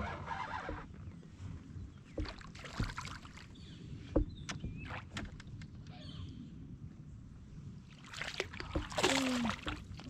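Scattered knocks and clicks of gear handled on a plastic fishing kayak, over low water noise, with a louder rush of noise near the end.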